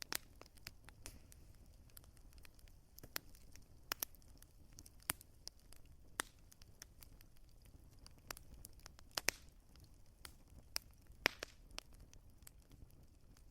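Wood fire crackling: irregular sharp pops and snaps over a faint low hiss of the flames, with a few louder snaps about nine and eleven seconds in.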